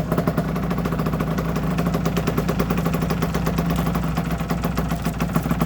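2008 Aprilia RS125 two-stroke single-cylinder engine idling steadily.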